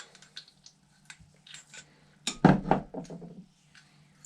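Small metal carburetor parts and tools clinking and clattering as they are handled, with a louder clatter of several knocks about two and a half seconds in.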